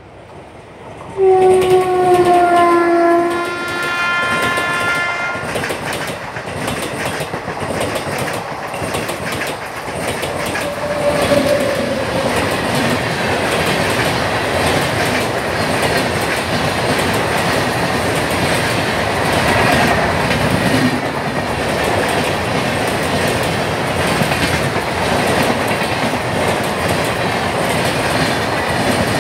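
A train horn sounds suddenly about a second in, held for a few seconds and dropping slightly in pitch. Then two passenger trains pass at once on adjacent tracks, a Humsafar Express of LHB coaches and a train of older ICF coaches, with steady wheel rumble and clickety-clack over the rail joints.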